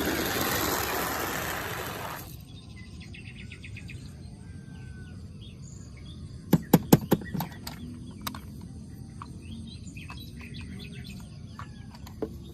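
A rushing noise for about two seconds, then birds chirping in the background, with a quick run of about six sharp clicks or knocks around the middle and one more near the end.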